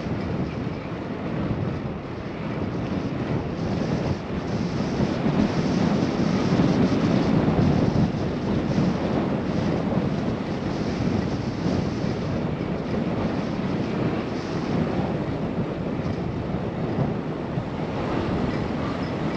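Wind rushing over a GoPro's wind-screened microphone while riding a bicycle: a steady rush of noise that grows louder for a few seconds near the middle.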